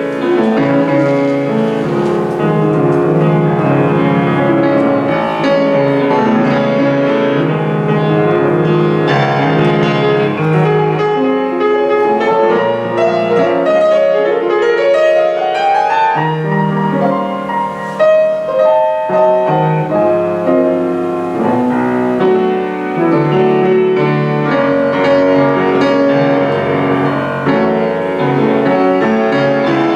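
Jazz combo playing with no vocal, piano to the fore over electric double bass.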